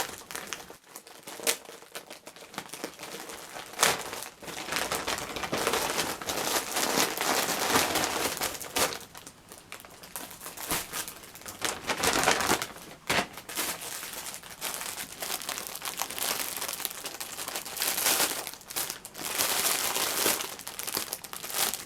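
Packaging being opened by hand: irregular crinkling and rustling of plastic or paper wrapping, with some tearing.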